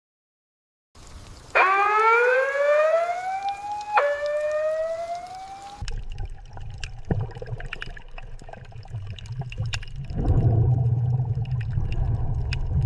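A warning siren wails, rising in pitch twice, starting about a second in. It gives way to a low rumble with scattered cracks and knocks, which grows louder about ten seconds in.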